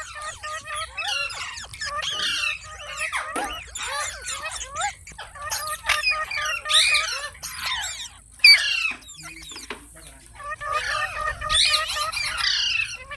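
Green ringneck parrot chattering and squawking in rapid runs of high, bending calls, with a sharp knock about eight and a half seconds in and a short lull just after it.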